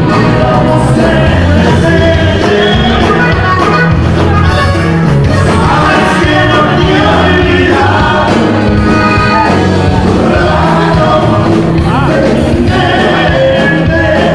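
A norteño band playing live, with a steady bass line under a sung melody.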